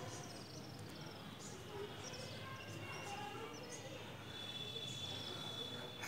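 Small birds chirping, with short high chirps coming every half second or so over a steady background noise. A thin, steady high whistle holds for the last second and a half.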